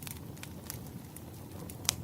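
Wood fire crackling: a steady low rumble with scattered sharp pops and snaps, one louder pop near the end.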